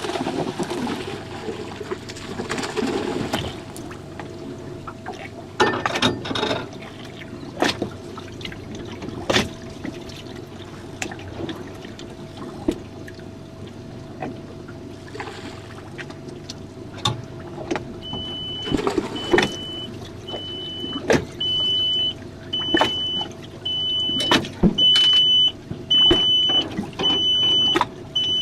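Knocks and clatter on a jon boat over a steady faint hum, then, about two-thirds of the way in, a high electronic beep that repeats about once a second.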